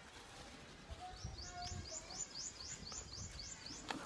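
A bird calling: a quick run of short, high, rising chirps, about five a second, lasting a couple of seconds. Soft low handling sounds and one sharp click near the end.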